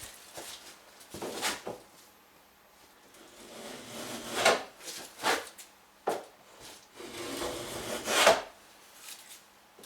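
Moulding plane cutting a bead profile along the edge of a softwood board, in several separate shaving strokes with short pauses between, the longest and loudest about eight seconds in.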